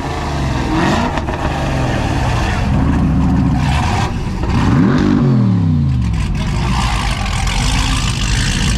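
An engine revved several times, its pitch climbing and dropping with each blip, the biggest rev about five seconds in. The exhaust note is deep.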